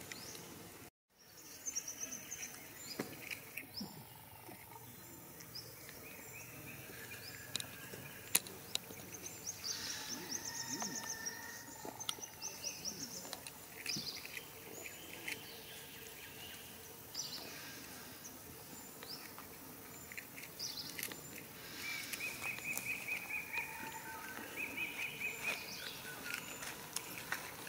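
Outdoor ambience of birds chirping and trilling, with scattered sharp clicks; the sound cuts out briefly about a second in.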